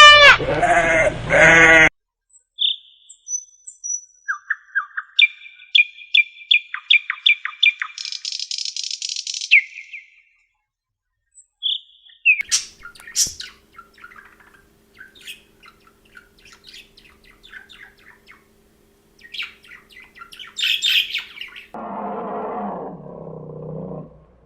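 A run of different animal calls. A pitched bleating call ends in the first two seconds. After a pause come high-pitched chirps and trills, then scattered clicks and squeaks, and near the end a lower call lasting about two seconds.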